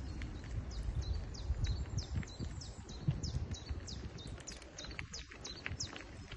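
Small birds chirping: many short, high chirps that sweep quickly downward, repeated throughout, over a low, uneven rumble.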